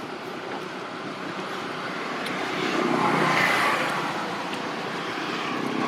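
A passing road vehicle: a steady noise that swells about three seconds in and fades, with another starting to swell near the end.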